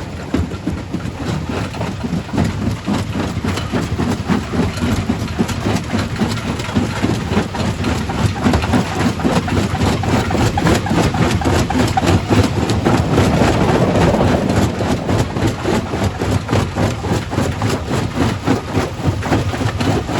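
Quarry primary rock crusher running: a heavy low machine drone under a dense, irregular clatter of rock knocking and breaking, swelling a little louder around the middle.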